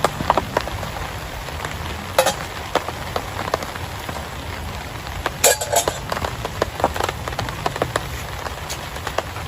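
Steady heavy rain falling, scattered with sharp taps and clicks, the loudest a little after two seconds in and again just past halfway.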